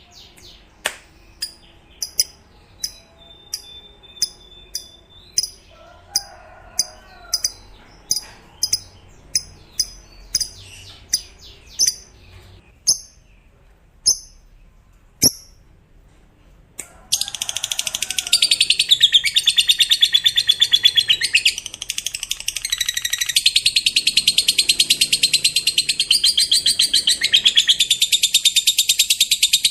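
Lovebird calling: a string of single sharp, high chirps about two a second, then, a little over halfway, a long unbroken rapid chatter, the 'ngekek panjang' (long chattering trill) that fighter-type lovebirds are kept for.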